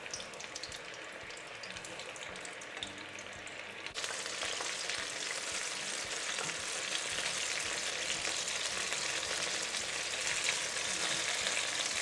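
Cornflour-coated chicken pieces frying in hot sunflower oil in a pan, a steady fizzing sizzle. About four seconds in it jumps suddenly louder and stays so, with the pan full of chicken.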